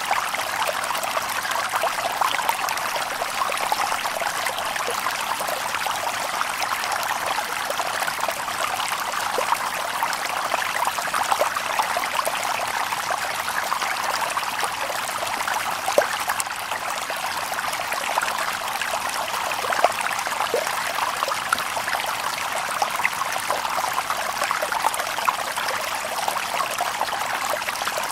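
Shallow stream babbling and trickling over stones, a steady rush of water with small splashes and drips scattered through it.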